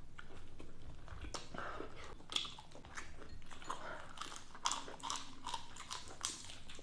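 A person chewing and biting food close to the microphone, with many short, irregular crunches and wet mouth clicks.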